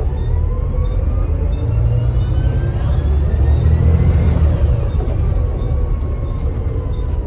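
Volvo B7TL bus's six-cylinder turbodiesel pulling under load: a deep engine drone with a turbo whistle that climbs in pitch over the first four or five seconds, then levels off and eases near the end.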